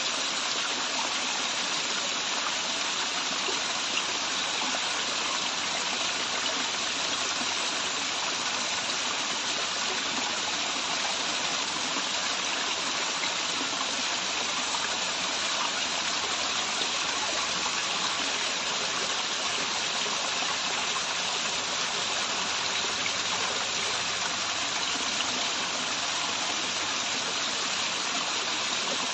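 Waterfall and running stream water, a steady, even rush of falling and flowing water.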